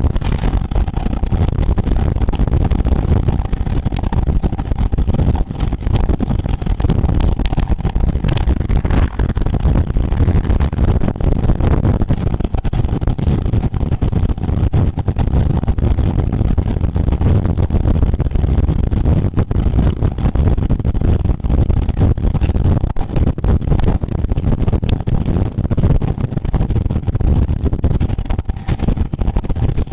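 Loud, steady wind noise buffeting the microphone of a camera riding along on a road bicycle at race speed.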